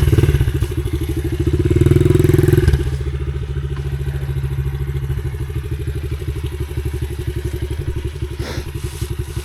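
Dirt bike engine running, given a brief burst of throttle about two seconds in, then settling back to a steady idle.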